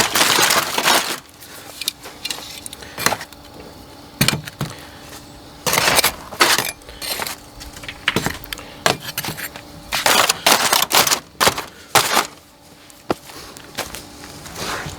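Irregular clinks, knocks and scrapes of camp cookware and utensils being handled, with longer scraping noises near the start, about six seconds in and about ten seconds in.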